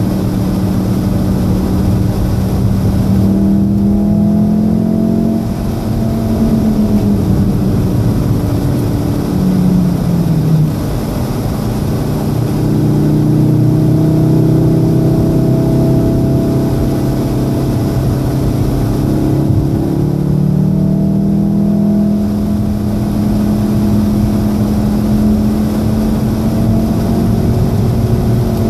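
2014 VW Golf VII R's turbocharged 2.0-litre four-cylinder engine heard from inside the cabin at speed, its note climbing, falling back for a bend and climbing again, with a few sudden drops in pitch along the way.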